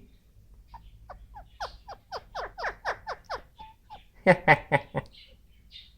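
Ringneck parakeet chattering: a quick run of short falling notes, about four a second, then a louder burst about four seconds in.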